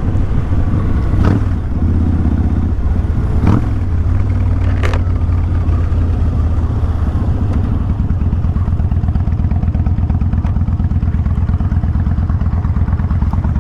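2000 Kawasaki Vulcan 1500 Classic's V-twin engine running steadily while riding, with three short sharp clicks in the first five seconds.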